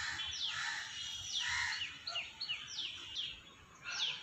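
Small birds chirping: a steady run of short, high calls that each slide downward in pitch, two or three a second.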